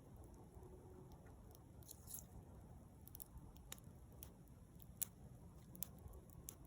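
Wood bonfire crackling: scattered sharp pops and snaps from burning wood, irregular and fairly faint, the sharpest about five seconds in.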